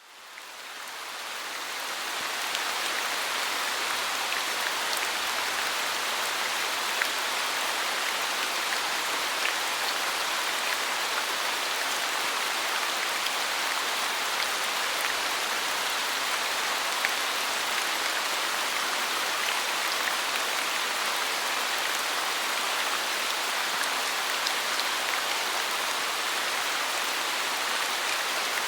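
Steady rain falling: an even hiss of many drops with the odd distinct drip standing out. It fades in over the first two or three seconds, then holds steady.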